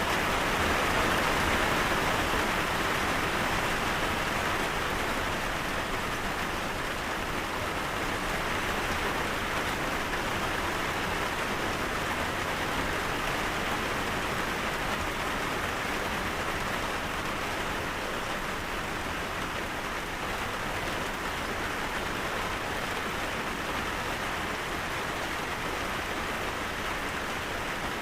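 Steady rain falling, an even wash of noise with no breaks, easing off slightly over the stretch.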